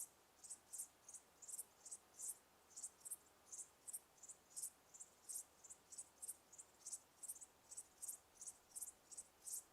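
Crickets chirping: faint, quick high chirps, about three or four a second, uneven in loudness, over a faint background hiss.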